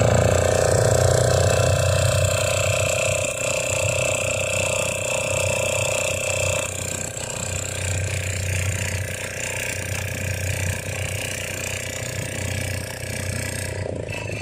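An engine running steadily with a pulsing low drone. A higher steady tone drops away about halfway through.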